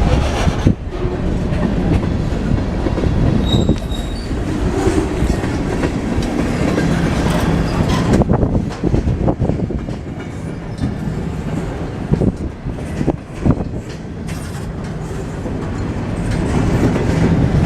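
Freight train of double-stack container cars rolling past, its steel wheels clacking over rail joints, with a brief thin wheel squeal about four seconds in.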